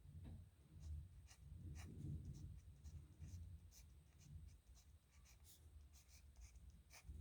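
A nib pen scratching faintly across paper in short, irregular strokes.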